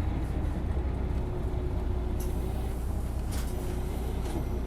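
Isuzu Erga city bus with a six-speed manual gearbox, its engine running with a steady, low, even rumble and no rise or fall in pitch. A couple of faint ticks or rattles come through, about two and three and a half seconds in.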